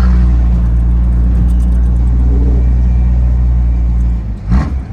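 A motor vehicle's engine running with a loud, steady low drone that drops away about four seconds in, followed by two short sharp sounds near the end.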